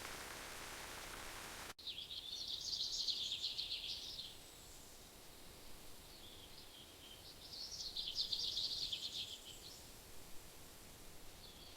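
A steady hiss that cuts off abruptly, followed by a small songbird singing two fast, twittering phrases of high chirps about five seconds apart, with faint chirps between them.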